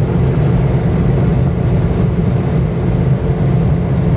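Steady rumble of a car driving, with engine and road noise and no change in pitch.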